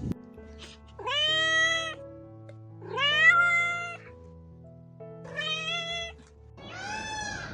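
Domestic cat meowing four times, each meow about a second long and rising at the start, over background music.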